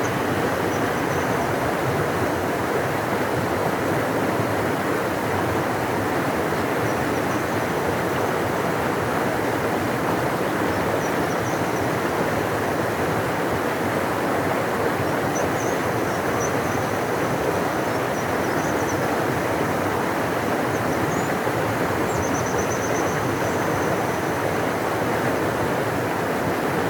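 Large river rushing in a steady, deep roar of water. Faint high chirps come through now and then.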